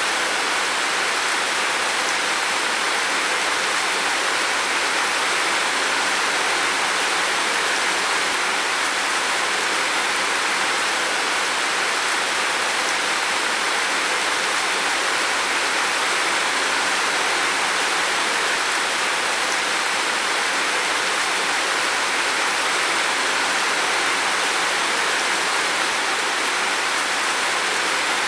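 Heavy rain falling on a roof, a steady, dense hiss with no let-up.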